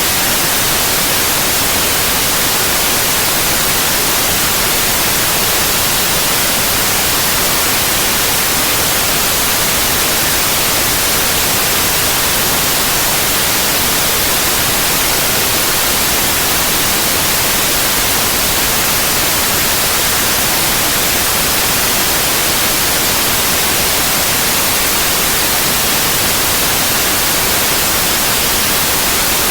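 Synthetic white noise: a steady, even hiss with no changes.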